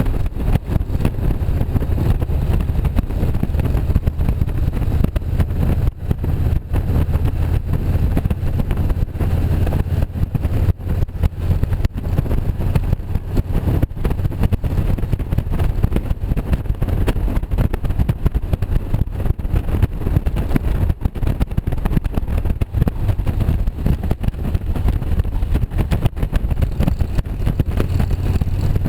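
Motorcycle engine running while under way, a steady low drone that shifts a little in pitch now and then, under a constant rush of road and wind noise.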